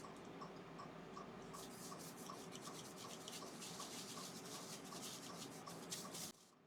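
Lemon oil being rubbed into the surface of an ash bowl: faint, scratchy rubbing strokes over a faint, even tick about three times a second. The sound cuts off suddenly near the end.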